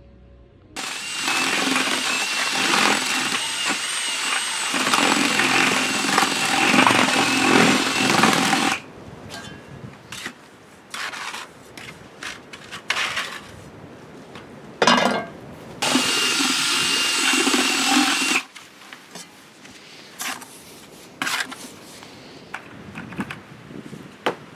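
A handheld power tool with a whining motor runs for about eight seconds and stops. After a pause with small knocks there is a short blip, then another run of about two and a half seconds.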